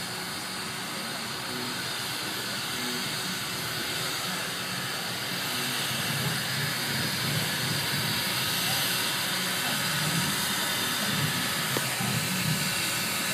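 Steam locomotive hissing steadily, growing gradually louder, with a faint low murmur underneath.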